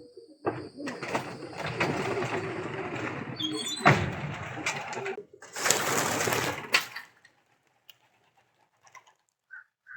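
Pigeons in a loft, cooing amid dense rustling sound, with a sharp click about four seconds in. The sound stops about seven seconds in, leaving a few faint short calls near the end.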